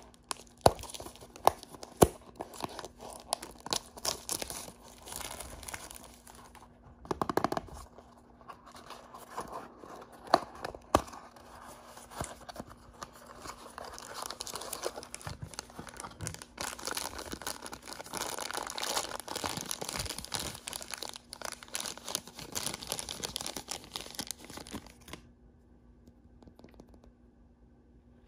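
Packaging wrappers being torn open and crinkled by hand, with a few sharp clicks in the first seconds. A long stretch of dense crinkling stops a few seconds before the end.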